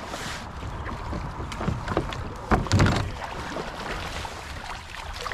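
Scattered knocks and water noise around a kayak on a river, with one louder, deeper thump about two and a half seconds in.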